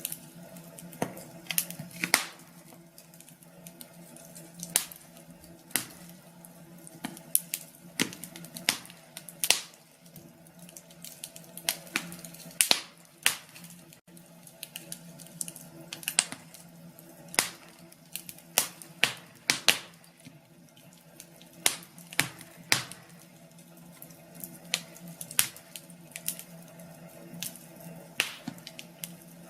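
Wood fire crackling in a fireplace: irregular sharp pops and snaps, some in quick clusters, over a steady low hum.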